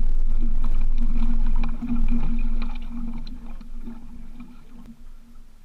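Small boat under way with its outboard motor running, a steady hum over wind and water rumble. The sound grows quieter from about two seconds in.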